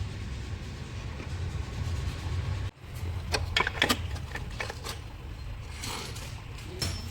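Volkswagen Polo engine running with a steady low hum. About halfway through, a cluster of sharp clicks is heard over it.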